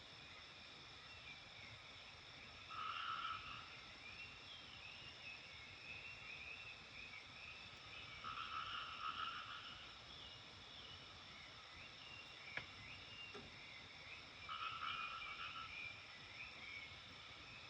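A frog calling three times, each call a short pulsed croak of about a second, a few seconds apart, over a faint twittering of birds and a steady high hum.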